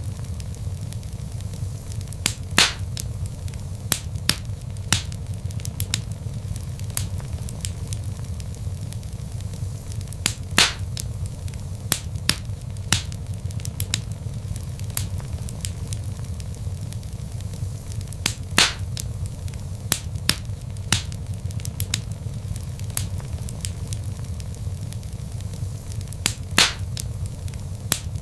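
Wood logs burning in a fireplace: a steady low rumble of flames with constant small crackles and a few louder pops, about every eight seconds.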